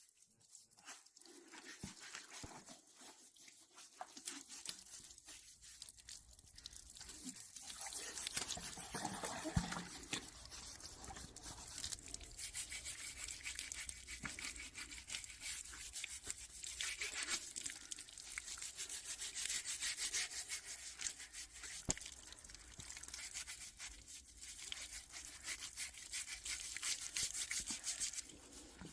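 Rapid, closely spaced scraping strokes, like a blade or brush worked quickly back and forth over a surface, building up a few seconds in and stopping just before the end.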